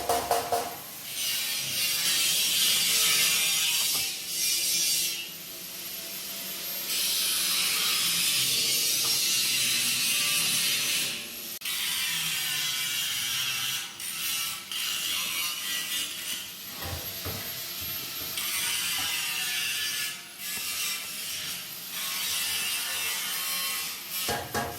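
Metalworking on a steel-plate wood stove: harsh hissing noise in stretches of a few seconds each, separated by short breaks.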